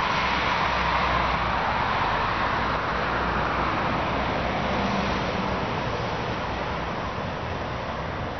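Morning rush-hour road traffic: steady tyre and engine noise of cars going by on the road beside the yard, easing off somewhat over the last few seconds.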